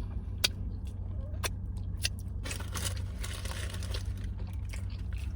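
Close-up eating sounds: a few sharp mouth clicks and a short crunching rustle, over a steady low electrical hum.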